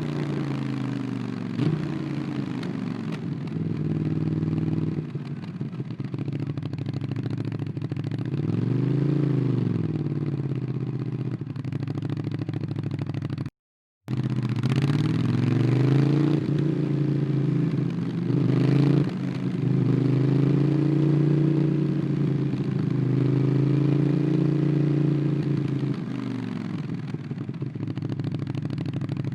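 Ducati Monster 821's L-twin engine through a QD Twin Gunshot aftermarket exhaust, heard onboard while riding. The engine note rises and falls with the throttle. The sound drops out for about half a second a little past halfway.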